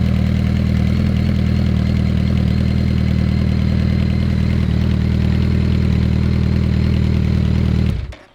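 2009 Suzuki Hayabusa GSX1300R's inline-four idling steadily through a Hotbodies Racing megaphone muffler, then cutting off abruptly near the end.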